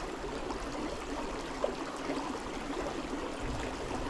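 River water running over rocks, steady.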